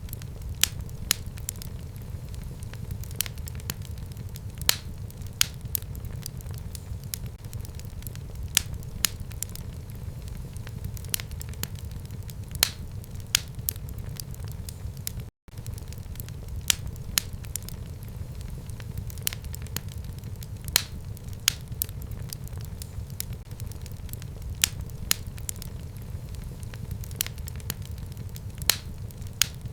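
Fire burning in a home fireplace, crackling: frequent sharp pops and snaps over a steady low rumble of flame. The sound cuts out for an instant about halfway through.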